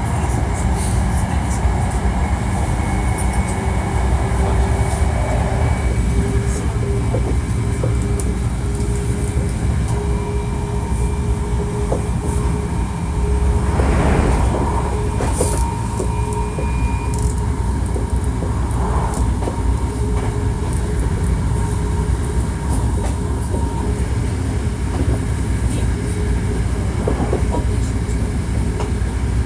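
Hankyu 1300-series electric train running at speed, heard from inside the car: a steady rumble of wheels on track with a sustained whine from the motor car's drive. This is the car the uploader singles out for its unusual running noise. About halfway through there is a brief rush of louder noise.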